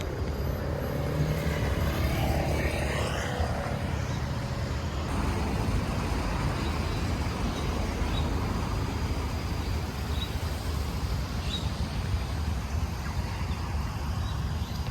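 Steady low outdoor rumble, with a few faint short high chirps in the second half.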